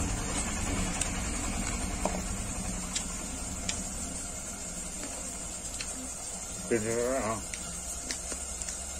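Close-miked chewing with faint, scattered mouth clicks, and a short hummed vocal sound from the eater rising in pitch about seven seconds in. A steady high-pitched whine runs underneath.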